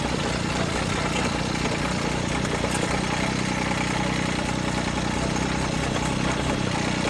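John Deere tractor's diesel engine running steadily at a low, even speed.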